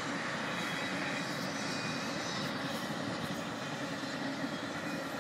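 Long train passing, its cars rolling by with a steady, even noise of wheels on the rails.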